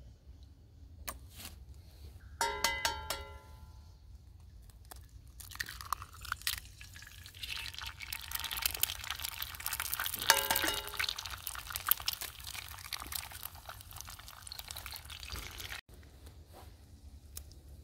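Oil and eggs sizzling in a hot cast iron skillet over a small wood fire, the sizzle building from about five seconds in and loudest after the second egg goes in. Two ringing metallic clinks, one about two and a half seconds in and one about ten seconds in.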